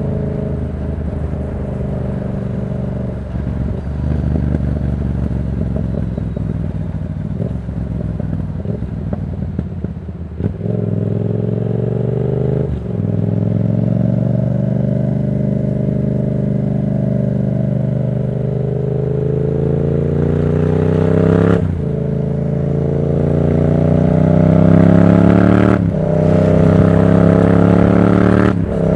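Yamaha MT-07's parallel-twin engine through a Black Widow aftermarket exhaust. It runs at low, steady revs for about ten seconds, then accelerates, the pitch climbing in gear with brief breaks for upshifts about 13, 21, 26 and 29 seconds in.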